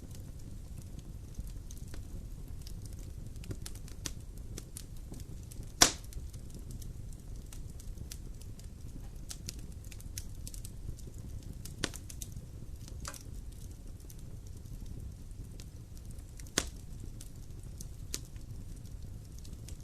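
Wood fire burning in a fireplace: a steady low sound of the flames with scattered faint crackles and a few sharp pops of the wood, the loudest about six seconds in and another near seventeen seconds.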